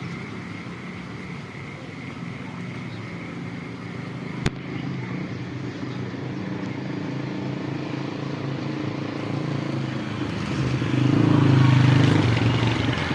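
A motor vehicle's engine running steadily, swelling louder about eleven seconds in, with one sharp click a little before halfway.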